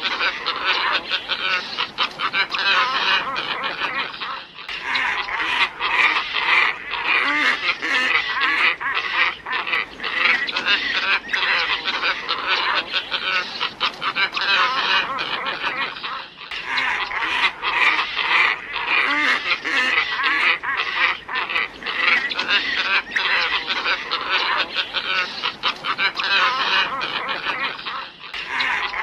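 A flock of glossy ibises calling, many harsh calls overlapping densely without a pause. It is a lure-call recording that repeats about every twelve seconds.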